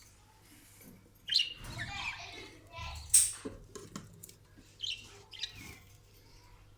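Budgerigars chirping in short, scattered calls with quiet gaps, the loudest chirps about a second and a half, three seconds and five seconds in.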